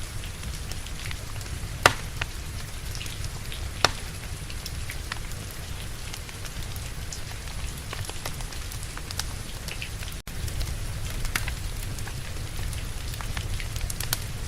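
Steady rain with a low rumble, over a wood fire crackling with scattered pops, two of them sharp and loud near two and four seconds in. The sound cuts out for an instant about ten seconds in.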